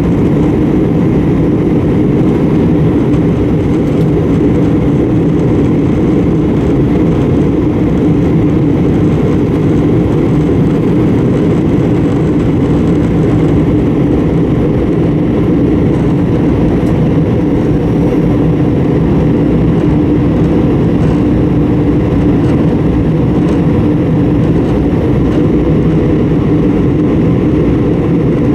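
Steady drone of an Airbus A320 heard inside the passenger cabin: engine and air noise with a constant low hum, unchanging throughout.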